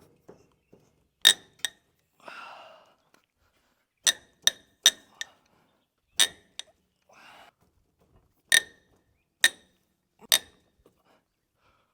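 Sharp, ringing metal-on-metal clinks, about ten irregular strikes, from steel hand tools (wrench, socket or bar) working tight bolts on an excavator boom cylinder, with heavy breaths between them.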